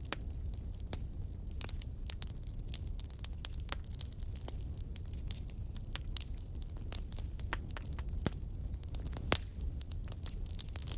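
Wood fire in a fireplace crackling, with many irregular sharp pops and snaps over a low steady rumble of the flames; the loudest pop comes about nine seconds in.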